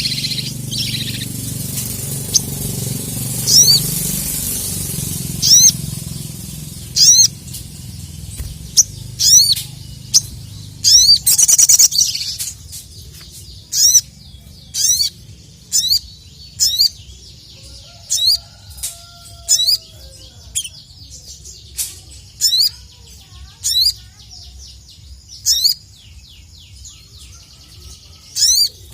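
Sogok ontong (sogon) bird singing: short, sharp, high chirps repeated roughly once a second, some in quick pairs. A low background rumble fades away over the first several seconds.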